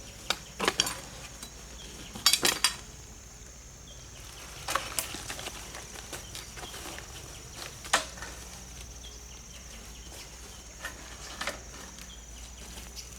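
Scattered sharp clicks and knocks, a few close together about two seconds in and then single ones every few seconds, over a steady high insect-like drone.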